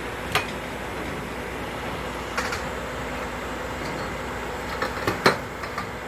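An excavator's diesel engine running steadily, with sharp knocks about half a second in, about two and a half seconds in, and a cluster of them near the five-second mark.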